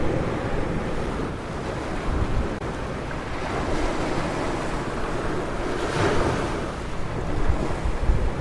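Ocean surf: a steady wash of breaking waves, with one wave breaking louder about six seconds in. Wind rumbles on the microphone underneath.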